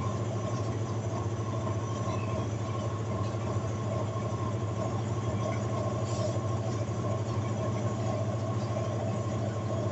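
Electrolux LT10B washing machine running with a steady hum and a thin, high whine over it.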